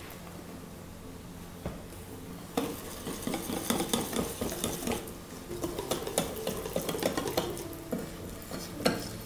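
A utensil stirring and scraping in a pot or pan, with rapid clinks of metal on cookware that start about two and a half seconds in, over a faint steady background.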